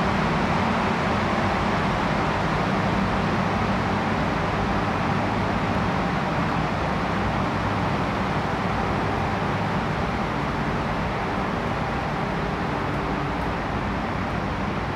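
Steady low drone and rumble of a ship's machinery, a constant hum with a wash of noise over it.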